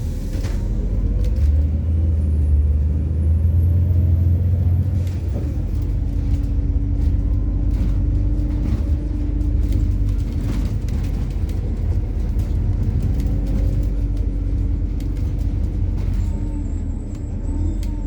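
MAZ-103 city bus running on methane (compressed natural gas), heard on board as it drives: the engine drone builds and pulls hardest in the first few seconds, then runs steadily. Frequent short rattles and knocks come from the bus body.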